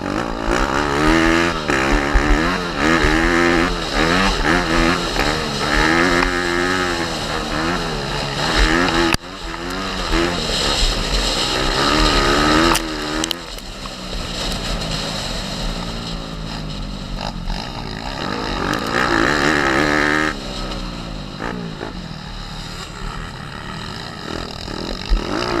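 Pit bike's small single-cylinder four-stroke engine revving up and down over and over as it is ridden hard, pitch climbing and dropping with the throttle and gear changes, over wind buffeting the microphone.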